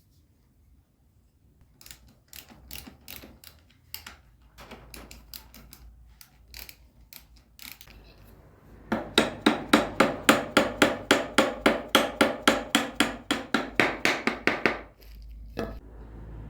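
A hammer striking repeatedly: first a scatter of lighter, irregular taps, then a steady run of loud blows at about four a second, with some ringing after each, that stops sharply about a second before the end.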